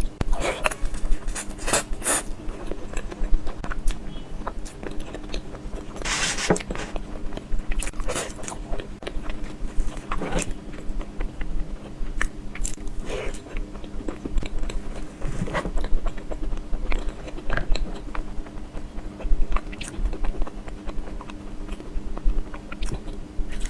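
Close-miked eating of an ice-cream mille-crepe cake: biting and chewing with many short sharp clicks and taps, over a faint steady hum.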